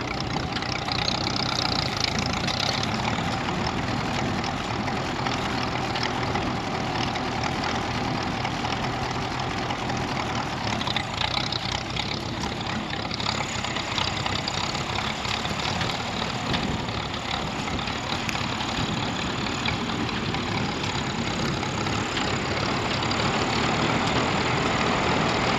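1954 Ferguson TEA20 tractor's four-cylinder petrol engine running steadily, a little louder near the end.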